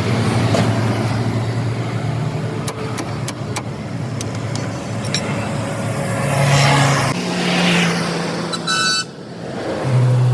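Motor vehicles at the roadside: a steady engine hum that shifts in pitch, with a vehicle passing and swelling up about six seconds in, and a few sharp clicks around three seconds in.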